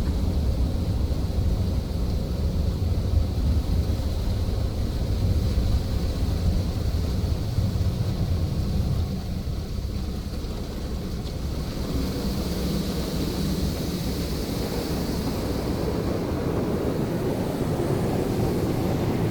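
Touchless car wash machine working over the car, heard from inside the cabin: a steady low rumble with a rushing, surf-like noise. About twelve seconds in, the rumble eases and a higher hiss comes up.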